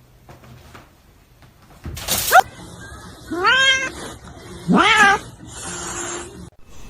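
A domestic cat meowing twice, each meow sliding up in pitch, after a short sharp noise about two seconds in.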